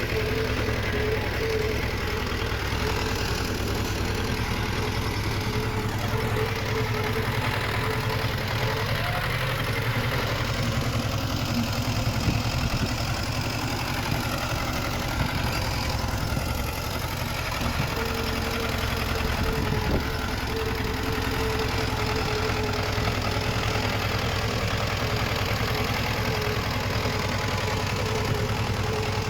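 Diesel engine of heavy earthmoving machinery running steadily, a continuous low drone with a faint steady whine over it.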